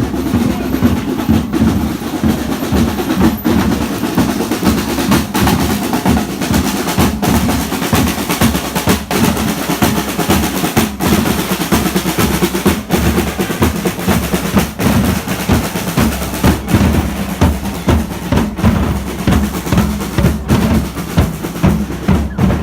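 Percussive music with fast, dense drumming, falling briefly quiet about every two seconds in a steady repeating pattern.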